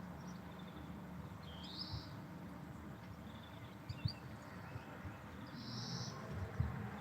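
Small birds chirping, with two longer high warbled calls, about two seconds in and again near six seconds, over a steady low background rumble.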